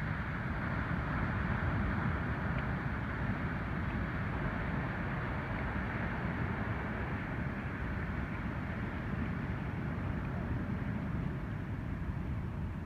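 Ocean surf breaking and washing on the beach: a steady rush with a slight swell in loudness, as swell from a typhoon starts to arrive.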